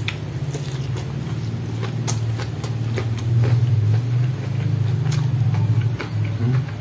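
Close-up mouth sounds of chewing raw leafy vegetables, with scattered short crisp clicks. Under them is a steady low hum that swells a little in the middle.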